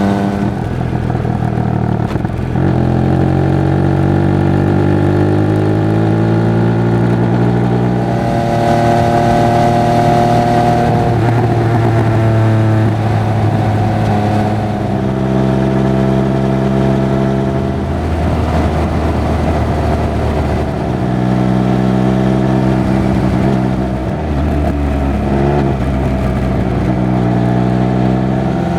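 Triumph Speed Triple 1200 RR's three-cylinder engine and exhaust under way, the note rising in pitch as it pulls through the revs and dropping back several times at gear changes or when the throttle is closed.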